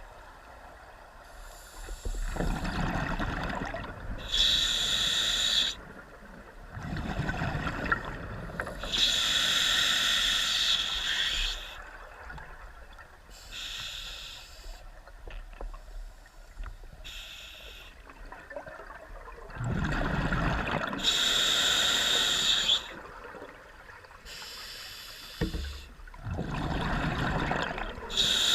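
A diver breathing through a scuba regulator: hissing inhalations alternating with rumbling bursts of exhaled bubbles, roughly one breath every five to six seconds, with a longer quieter gap in the middle.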